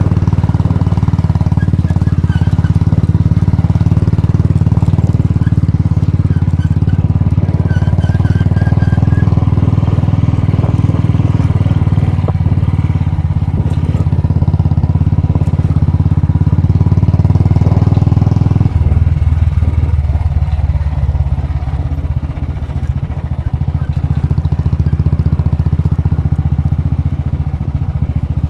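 Royal Enfield Bullet's single-cylinder engine running under way, a steady low engine note. About two-thirds of the way in the note drops abruptly and gets quieter.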